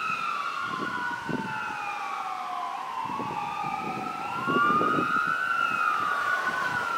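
Emergency vehicle siren on a wail setting, its pitch sliding slowly up and down over a few seconds. Two wailing tones sweep out of step with each other.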